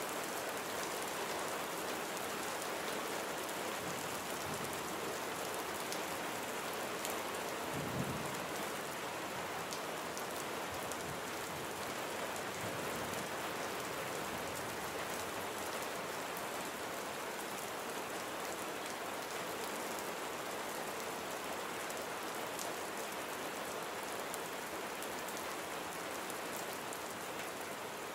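Steady rain falling and pattering on surfaces, an even hiss of many drops. About eight seconds in there is a single brief low thump.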